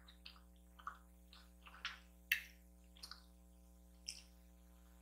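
Close-miked eating sounds: faint wet chewing and smacking of kimchi noodles in the mouth, coming irregularly, with the loudest smack a little over two seconds in.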